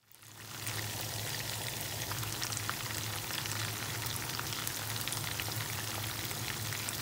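Chicken karaage pieces frying in oil in a pan: a steady sizzle full of small crackling pops, over a low steady hum. It fades in at the start.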